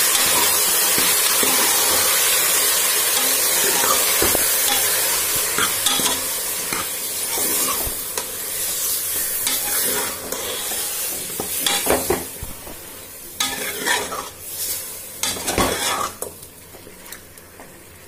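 Raw chicken pieces sizzling in hot oil in a steel pot while being stirred with a steel spoon. The sizzle is loud at first and dies down over the second half, with the spoon scraping and clanking against the pot several times near the end.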